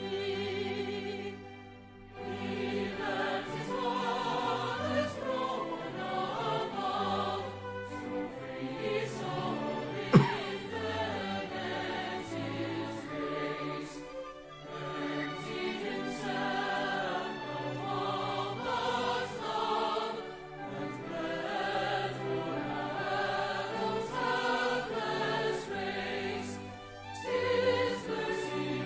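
A hymn sung by a choir, in long phrases with short breaths between them. One sharp click cuts through about ten seconds in.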